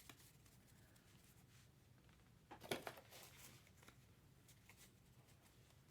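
Near silence with a faint low room hum; about two and a half seconds in, a short cluster of rustles and clicks from trading-card packaging being handled.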